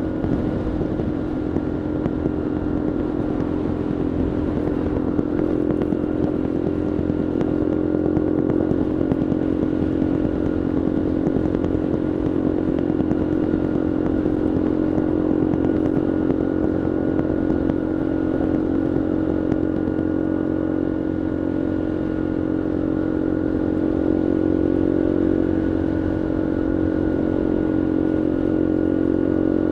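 Bullit Heritage 125cc monkey bike's fuel-injected single-cylinder engine running steadily while being ridden, its pitch holding almost level.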